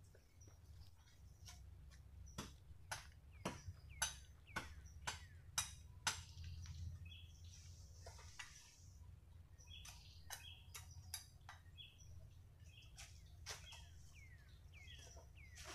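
A bird calling: a run of sharp clicking notes about two a second, some trailing into a short falling chirp, then after a pause a second, looser run.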